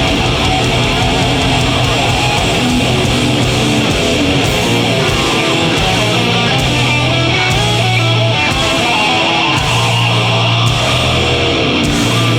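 Live heavy metal band playing a guitar-driven song, with low sustained notes shifting every second or so under the guitars.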